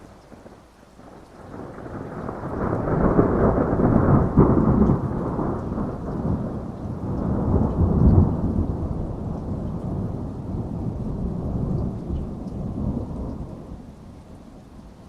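Rolling thunder in a heavy rainstorm: a long low rumble that builds over the first couple of seconds, peaks twice and fades away near the end, over steady rain.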